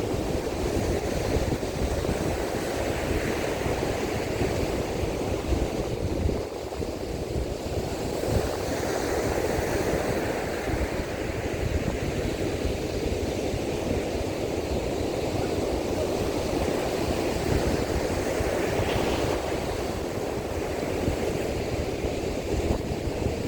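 Surf breaking on a beach in strong wind, with wind rumbling on the microphone.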